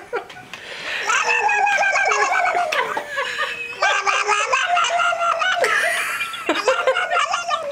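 A baby vocalizing in long, high-pitched, wavering squeals and laugh-like sounds, in several runs of a second or two each with short breaks between.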